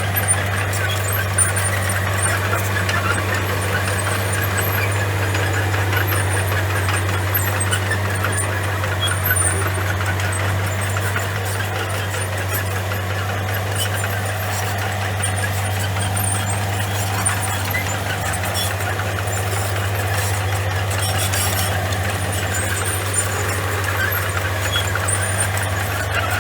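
Komatsu bulldozer's diesel engine running steadily: an even low drone throughout, with short high squeaks and clinks scattered across it.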